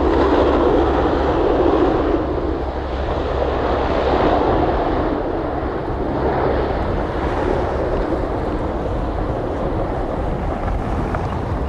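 Aircraft engine noise, a steady loud rush that eases slightly after a couple of seconds as the aircraft moves away, with wind buffeting the microphone.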